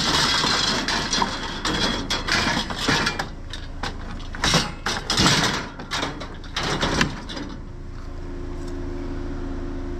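Scrap being handled, giving a run of irregular rattles and clunks through most of the first seven or eight seconds. Under it a vehicle engine idles with a steady hum, which is heard on its own near the end.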